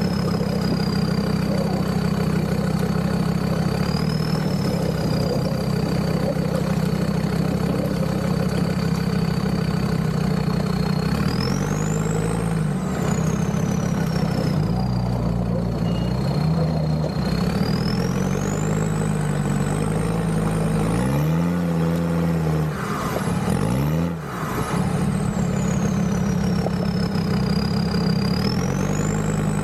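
Land Rover Discovery 2's Td5 five-cylinder turbo-diesel engine running while driving, its engine speed rising and falling several times from about a third of the way in. A high whine climbs and drops along with the revs.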